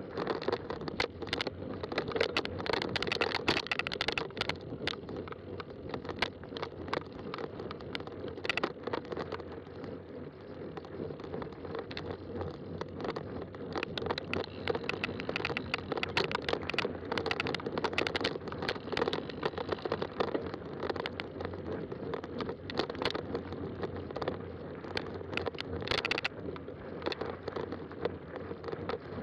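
Fat-tire bike rolling along a trail: a continuous crackling rumble from the tyres, with many small clicks and knocks.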